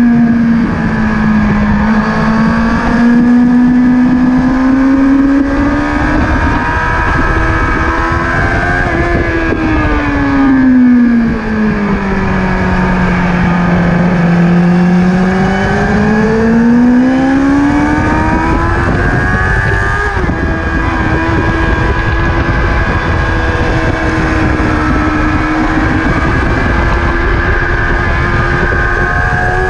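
Sport motorcycle engine at high revs on a race track, heard with strong wind rush. The engine note holds high, sinks slowly for a few seconds near the middle as the bike leans through a corner, then climbs back and stays high.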